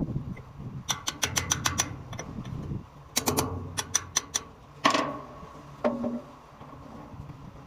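Rapid runs of sharp hammer strikes on metal, about six a second, then one louder ringing strike about five seconds in, over a low steady hum.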